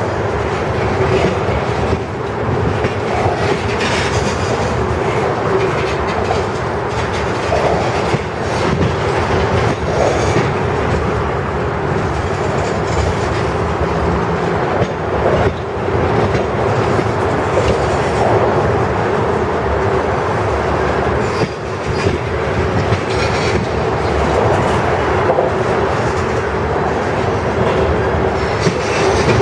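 Freight train cars rolling past at speed, wheels clicking steadily over rail joints with a continuous steady ringing tone from the wheels and rails.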